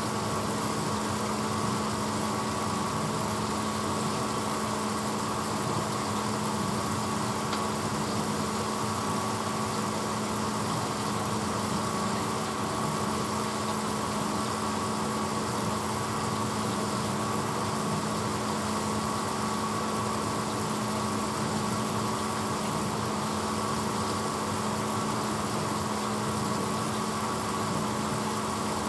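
1986 Hotpoint Potwasher dishwasher running steadily: an even motor hum with a thin constant whine over it.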